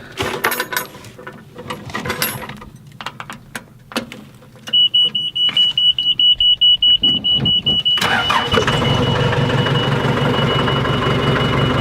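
Forklift being started: a few knocks and clanks, then a rapid high warning beep for about three seconds before the engine cranks and catches about eight seconds in. The engine then idles with a steady high tone sounding over it.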